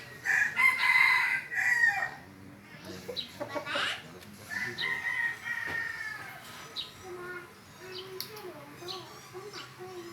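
A rooster crowing, two long held calls: one just after the start and another about five seconds in.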